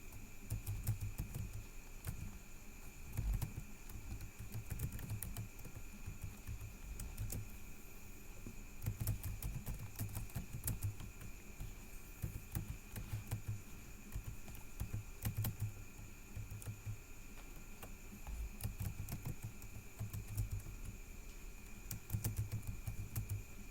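Typing on a computer keyboard in irregular bursts of keystrokes with short pauses between, over a steady faint high-pitched electrical whine.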